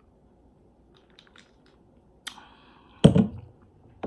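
Close-miked eating: a sharp crunch about two seconds in, then a louder, heavier crunch or thump about a second later.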